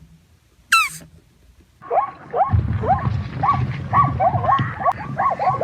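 A single short high squeak, then from about two seconds in a dense chorus of many small animals crying together, short rising-and-falling calls overlapping and coming faster towards the end.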